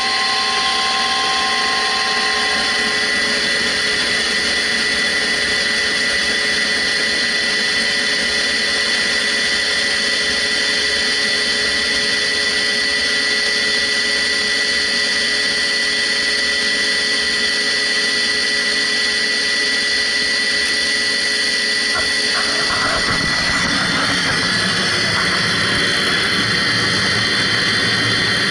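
Rooftop HVAC equipment running steadily: a fan-and-motor whine with several constant tones over a steady rush of air. A deeper rumble joins about 22 seconds in.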